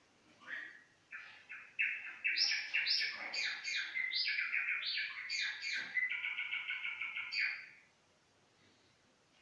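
Java sparrow singing: a few scattered chirps that quicken into a dense string of bright notes, closing with a fast, even run of repeated notes before stopping about three-quarters of the way through.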